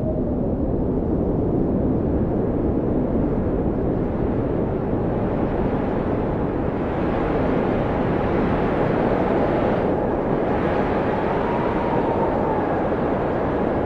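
Blizzard wind blowing hard: a steady low rush with a faint howl that rises and falls in pitch. The wind gusts stronger and brighter a little past halfway.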